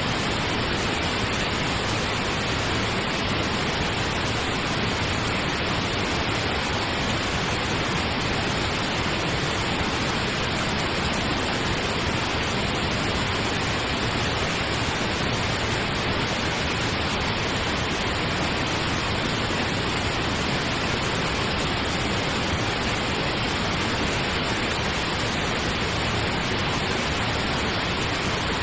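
Pink noise: a steady, even rushing hiss with no changes.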